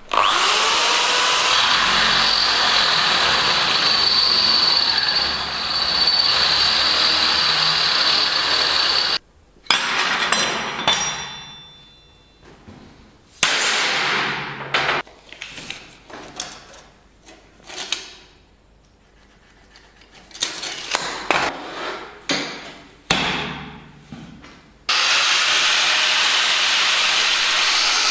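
Electric power tool running at full speed with a high whine, then started and released in a series of short runs, each winding down with a falling pitch, before running steadily again near the end.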